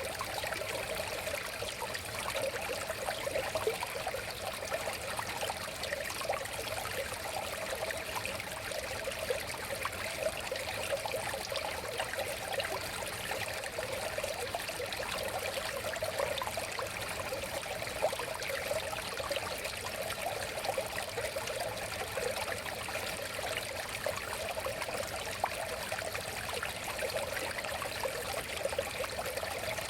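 Shallow river flowing and burbling over stones, a steady rush of water with small trickles and splashes throughout.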